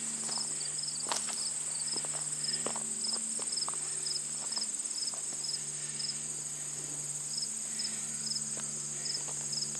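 Late-summer insect chorus: a steady high-pitched trill with a cricket chirping in short, regular pulses, about two to three a second.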